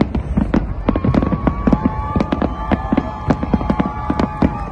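Aerial fireworks barrage: a rapid, continuous run of bangs from many shells bursting together, several a second, over a low rumble. A steady whistle-like tone is held through most of it.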